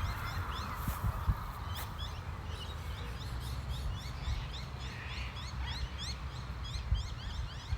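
Birds chirping: a steady run of short, rising chirps, several a second and overlapping, as from a flock. Under them a low rumble on the microphone.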